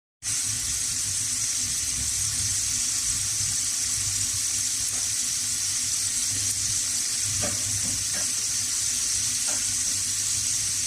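Potatoes frying in oil, a steady sizzle with a few faint ticks in the second half.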